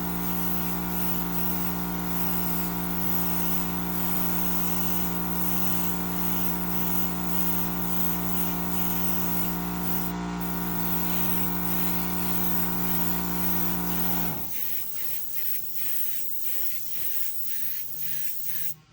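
Small airbrush compressor running with a steady hum and hiss, shutting off about three-quarters of the way through, followed by several short hisses of air.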